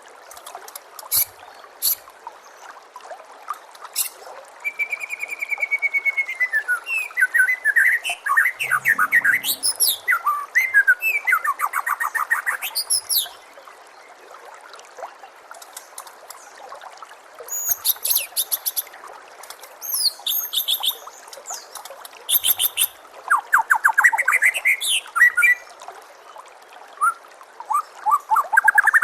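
White-rumped shama (murai batu) singing in bursts of varied song: a held whistle, quick runs of sliding notes and very high, fast trills, with a pause about halfway through. A steady trickle of running water goes on underneath.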